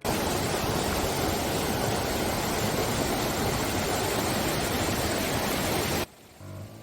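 Stream water rushing in a steady, dense rush that cuts off suddenly about six seconds in.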